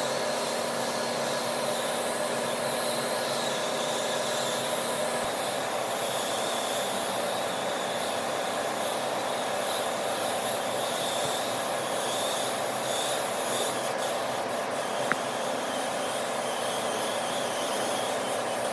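Steady running machine noise with a strong hiss, holding even throughout, with a single faint click about fifteen seconds in.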